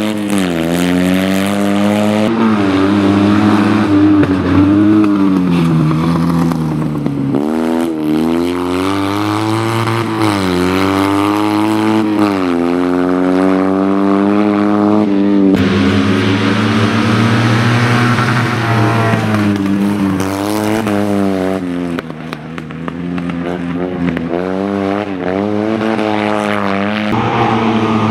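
Fiat 126p rally car's two-cylinder engine revving hard, its pitch climbing and then dropping again and again as it accelerates, shifts and lifts off for corners.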